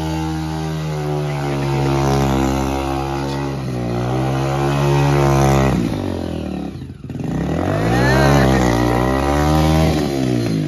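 Hero Splendor's single-cylinder four-stroke engine revved hard while the bike spins its rear wheel round in circles on concrete. The revs surge up and down several times and drop sharply about six to seven seconds in before climbing again.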